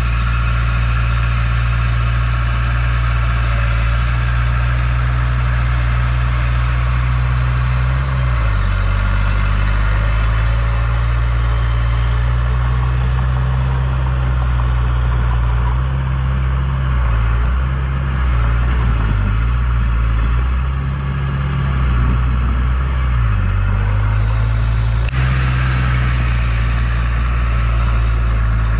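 Heavy diesel engine of earthmoving equipment running steadily, its pitch dropping about eight seconds in and wavering up and down for several seconds later on as the engine load changes.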